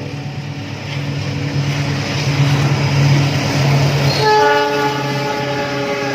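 A train passing close by, its running noise swelling to a peak in the middle, with a steady low engine drone underneath. About four seconds in the locomotive's horn sounds again, a multi-tone blast that holds on.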